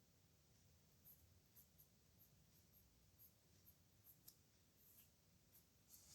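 Faint scratching of a pen on paper, in short irregular strokes, with a longer scratch near the end.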